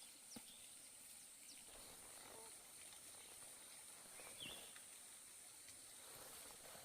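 Near silence: faint outdoor ambience with a steady high-pitched hiss, a few soft ticks and a short chirp about four and a half seconds in.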